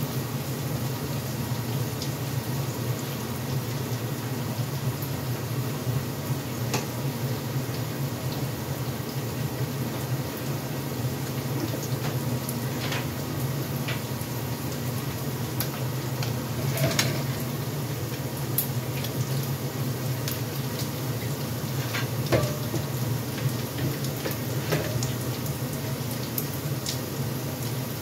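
Small dried anchovies (teri Medan) frying in hot oil in a pan: a steady sizzle with scattered pops and crackles, the fish nearly cooked.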